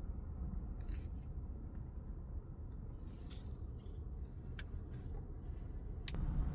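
Downpour on a pickup truck: a steady low rumble with a few scattered sharp ticks.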